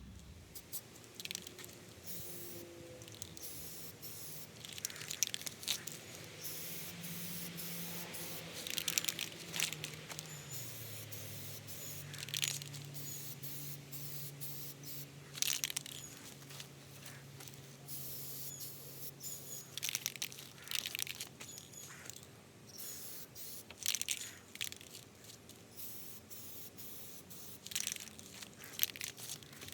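Aerosol can of wheel paint spraying in short hissing bursts, each a second or two long and several seconds apart, as coats are laid on the wheels.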